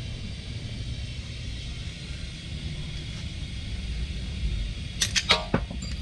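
Steady low rumble in the background, then a quick run of sharp metallic clinks about five seconds in, some ringing briefly, as tools and parts are worked during a radiator swap.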